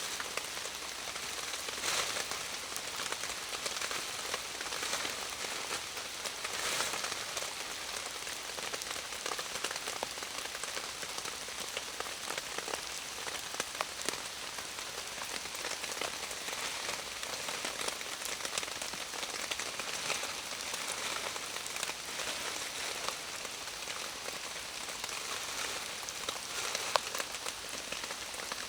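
Steady rain falling in a forest, a dense even hiss with many small drop ticks and a few sharper ones standing out.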